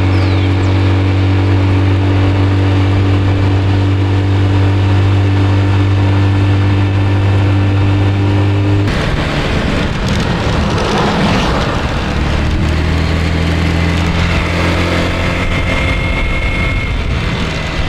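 Small scooter engine running steadily while riding. About halfway through the sound changes abruptly: the engine note drops lower and a rushing noise comes up over it.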